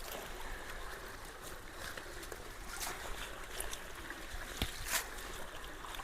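Creek water flowing steadily through a culvert that is partly cleared of debris, with a few sharp knocks or splashes about halfway through.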